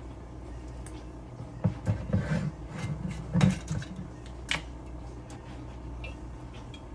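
Knocks and clinks of hard objects being handled, clustered between about one and a half and four and a half seconds in, over a steady low hum.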